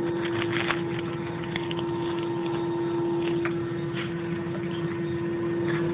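Steady airliner cabin hum: ventilation and machinery noise with one constant mid-pitched tone running through it, and a few faint, brief sounds from the cabin on top.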